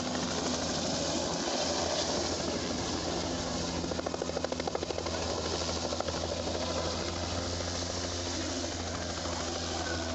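Helicopter running nearby, a steady rotor and engine drone with a fast, even blade chop that grows more distinct about halfway through.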